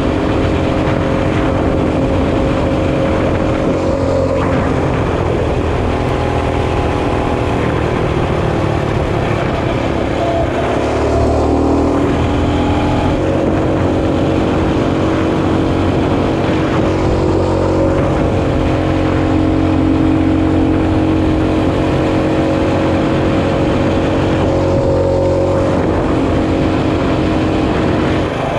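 Mini bike's small engine running under way, steady in pitch for long stretches; about a third of the way through the pitch drops as the bike slows, then climbs back as it speeds up again.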